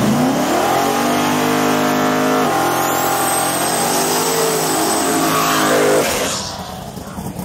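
Street race cars, a turbocharged car and a Chevrolet Malibu, launching and accelerating hard. Engine pitch rises off the line, steps down about two and a half seconds in as a gear changes, climbs again, then the engine sound drops away about six seconds in as the cars pull off into the distance.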